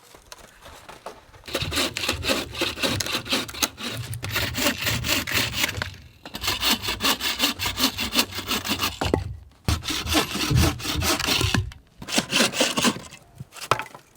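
Hand saw cutting into a cedar log with quick back-and-forth strokes, in four bouts broken by short pauses.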